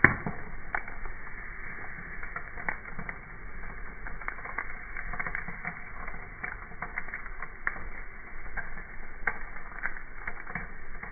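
Wood campfire crackling, with irregular sharp snaps and pops of burning wood over a steady low hiss. The loudest snap comes right at the start.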